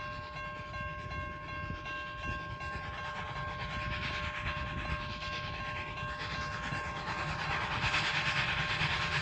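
Heritage train running along the line: a steady low rumble with a hiss that builds and grows louder over the last few seconds as it draws nearer.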